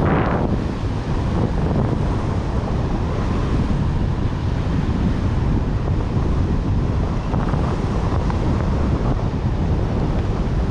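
Wind rushing over a body-worn camera's microphone during a downhill ride in powder snow, a steady loud rumble with a brief sharper hiss right at the start.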